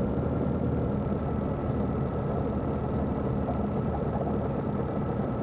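Light aircraft's engine and propeller running steadily, heard from inside the cockpit, with a faint steady whine above the low drone.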